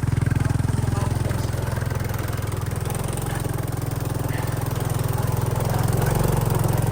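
Motorcycle engine running steadily with a fast, even pulse, getting slightly louder near the end.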